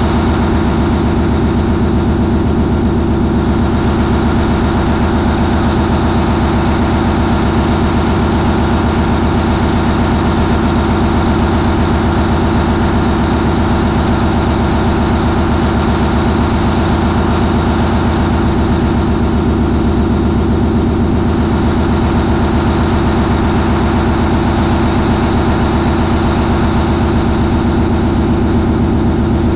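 MAN 20V28/33D STC 20-cylinder V diesel main engine running loud and steady at about 940 RPM, with its sequential turbochargers engaged.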